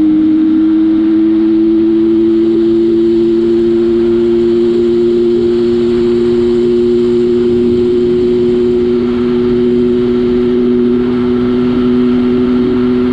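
Yamaha PW80's small two-stroke single-cylinder engine, breathing through an FMF slip-on exhaust and Boyesen reeds, running flat out in third gear on a top-speed run. Its steady pitch creeps slowly upward as the bike gains speed toward its top speed.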